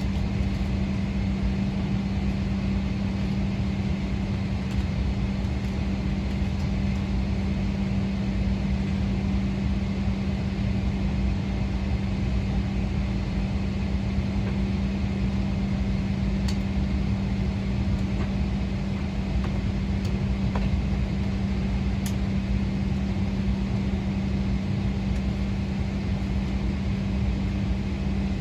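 Steady cabin noise inside a Boeing 777-300ER on the ground: an even rumble of air and machinery with a constant low hum, unchanging throughout, with a couple of faint ticks.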